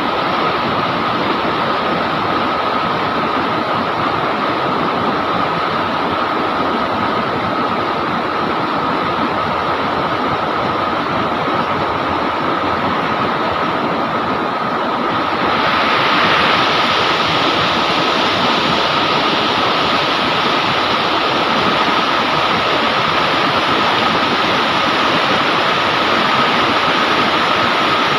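River water rushing steadily over rocks. About halfway through it turns brighter and a little louder, then holds steady.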